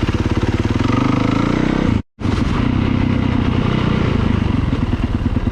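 Off-road dirt bike engine running with a steady, rapid firing beat and a slight rise in pitch. It cuts out abruptly for a fraction of a second about two seconds in, then picks up again unchanged.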